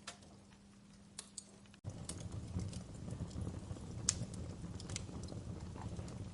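Wood fire crackling, with sharp irregular pops and snaps. About two seconds in, the sound cuts out for an instant and comes back louder, with a low rumble of flames under the crackles.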